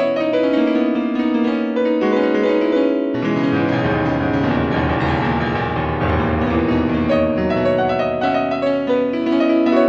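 Instrumental piano music: held notes and chords that change every second or so, without drums.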